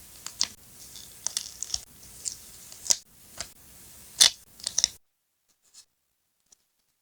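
Scissors snipping paper and paper being handled: a run of crisp, sharp snips and rustles that stops about five seconds in.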